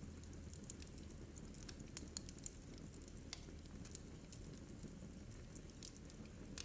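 Wood fire crackling in a fireplace: scattered sharp pops and snaps, a few louder ones about two seconds in, over a steady low rumble of the burning.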